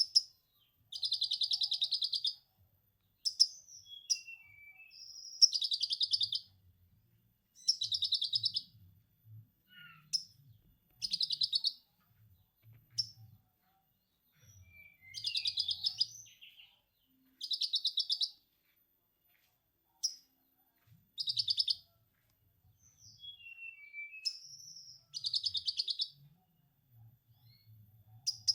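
A konin songbird singing lovebird-style 'ngekek' phrases: high, rapid rattling chatters about a second long, repeated about a dozen times with short gaps, and short high chirps and falling notes between them.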